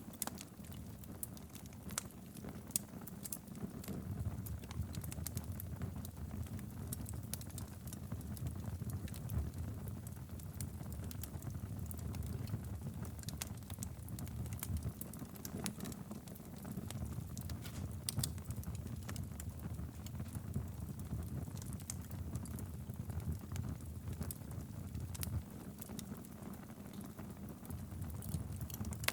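Wood fire burning steadily in a fireplace, with a low rumble under irregular sharp crackles and pops.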